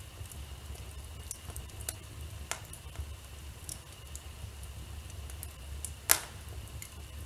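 Wood fire burning in a fireplace, crackling with scattered small pops and one loud sharp pop about six seconds in, over a low steady rumble.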